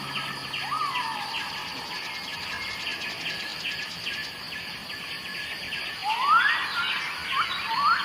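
Wild birds calling: rising whistled notes, one about a second in and several in quick succession near the end, over a steady, rapidly pulsing chirring chorus of insects.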